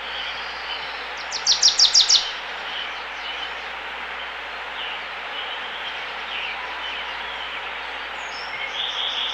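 Small birds chirping over a steady background hiss, with a quick run of about six sharp, high notes about one and a half seconds in and another short run of calls near the end.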